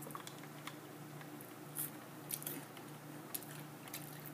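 Faint wet mouth clicks and crackles of someone chewing a french fry, over a low hum.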